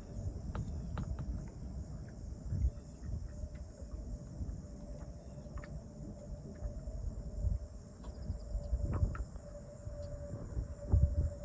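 Steady high-pitched insect chorus, with uneven low rumbling and a few soft clicks and bumps underneath.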